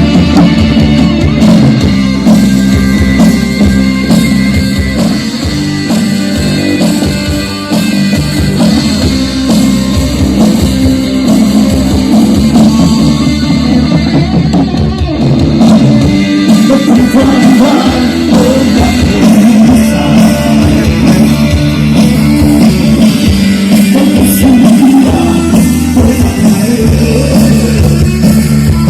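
Rock band playing loudly: electric guitars, bass and drums, with a voice singing at times.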